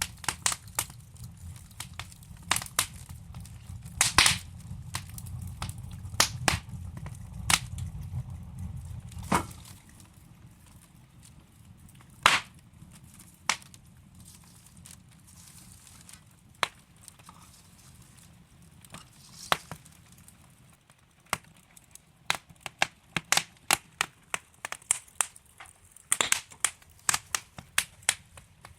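Wood fire crackling in a fireplace: irregular sharp pops and snaps from the burning logs, thicker near the end, over a low rumble that fades away about ten seconds in.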